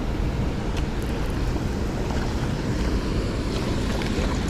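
Steady rushing noise of wind buffeting the microphone and moving water, with a few faint ticks.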